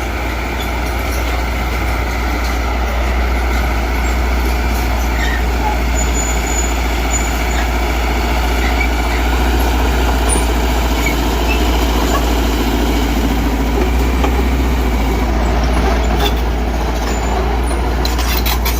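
Heavy diesel earthmoving machinery engine running steadily under load, with a few sharp clicks near the end.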